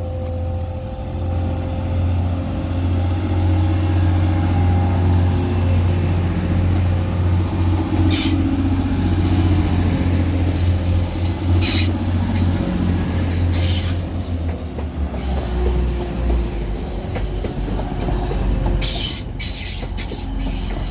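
A pair of Class 185 diesel multiple units pulling out of the station, with a steady low engine hum and whine. Short high wheel squeals and clanks come several times as the train runs over the pointwork.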